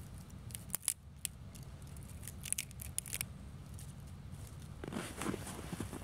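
Dry twigs snapping and crackling: a scattering of short, sharp clicks, a few in the first second or so and more near the end.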